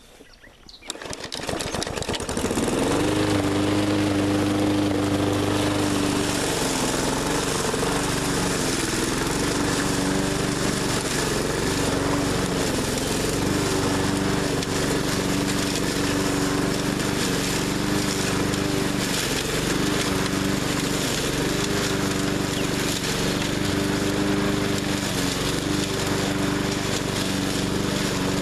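The small engine of a 20-inch push mower starts about a second in, comes up to speed and runs steadily, its pitch sagging briefly every few seconds.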